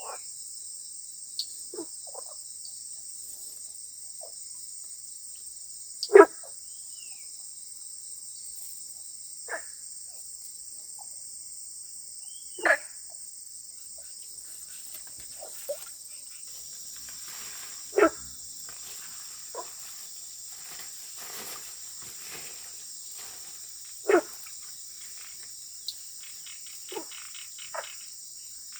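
Frogs calling after rain: loud single calls about every six seconds, with fainter calls between, over a steady high-pitched insect chorus. From about halfway through, a dense run of faint rapid clicking joins in.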